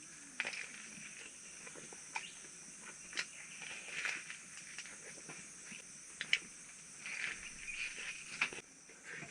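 A steady high-pitched insect chorus of crickets, with a few light clicks and short rustles of handling scattered through it.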